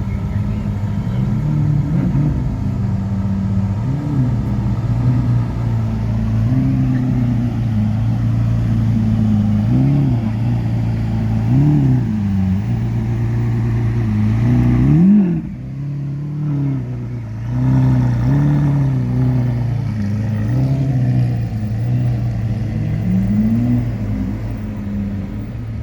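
Car engine idling with repeated short throttle blips, the revs rising and falling every couple of seconds.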